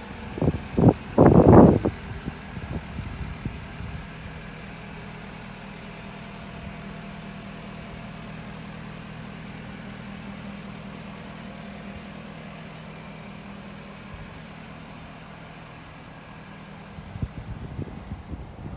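2011 Ford F-550's 6.7L Power Stroke V8 diesel idling steadily with an even hum. Several loud bursts of noise come in the first two seconds, and a few more come near the end.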